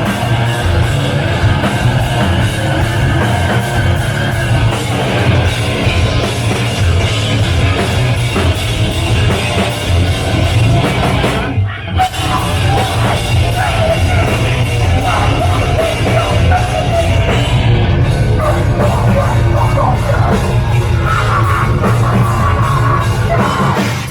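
Heavy metal band playing live: loud, dense distorted guitars and drums with yelled vocals, with a brief break about halfway through.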